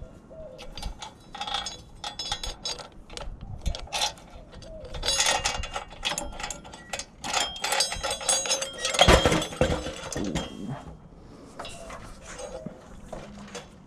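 Metal clinking and clattering, as of hand tools and small metal parts being handled, in an irregular run of clicks and rattles that is busiest and loudest a little past the middle.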